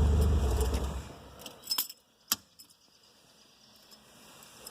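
The Fiat 124 Spider's 1.8-litre four-cylinder engine runs and dies away about a second in as it is switched off. A few sharp clinks of the keys in the ignition follow.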